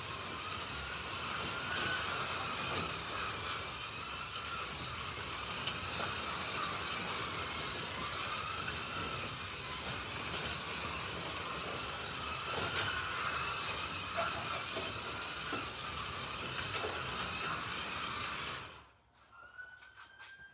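Slot cars' small electric motors whining around the track, the pitch rising and falling as the cars speed up and slow for corners. The whine cuts off suddenly near the end, and a siren-like tone slides in just after.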